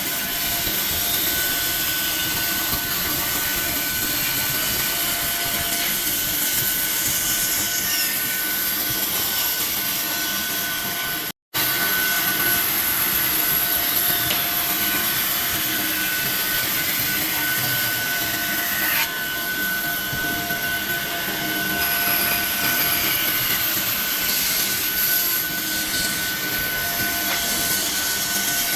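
Benso woodworking machine running steadily with a constant high whine over a hiss, as it works wood. The sound cuts out completely for a moment about eleven seconds in, then resumes.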